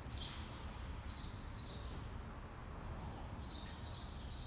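Faint, short, high bird chirps repeating every second or so over a low steady room hum.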